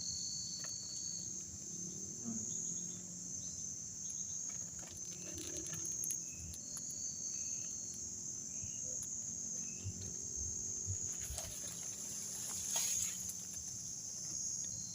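Steady high-pitched chorus of insects, with a few short faint chirps in the middle and some rustling near the end.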